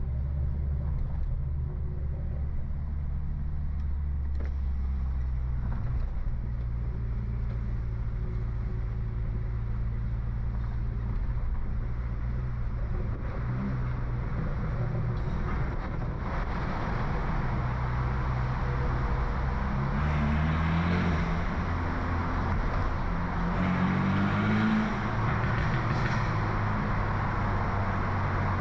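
Stage 2 tuned BMW F30 328i's turbocharged four-cylinder engine and exhaust on the move: a steady low drone while cruising, joined by louder rushing road noise from about halfway. Near the end the engine pitch rises twice as the car accelerates.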